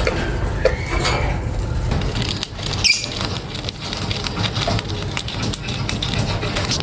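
Lovebirds giving short, high chirps and squeaks among many small scratchy clicks.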